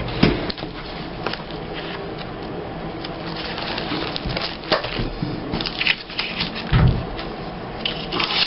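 Paper and craft supplies being handled on a table: rustling with scattered light clicks and taps, and one dull thump about seven seconds in.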